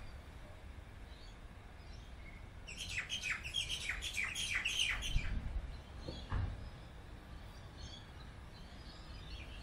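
Birds chirping: a quick run of high chirps, each sliding downward, starting about three seconds in and lasting some two seconds, over a low steady rumble.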